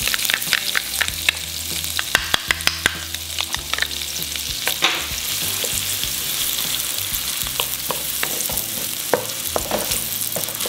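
Chopped garlic and onion sizzling in oil and butter in a hot pan over medium heat, being stirred. Many sharp taps and clicks sound over a steady hiss, bunched about two to three seconds in and again near the end.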